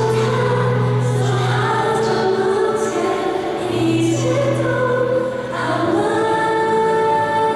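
A class of young students singing together as a choir, holding long notes over a steady low accompaniment.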